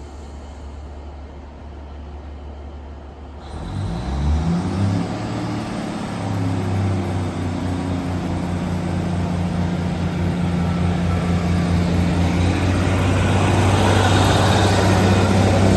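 Class 150 diesel multiple unit pulling away: a low idling hum, then a few seconds in the underfloor diesel engines power up to a steady drone. The drone grows steadily louder as the train accelerates away from the platform.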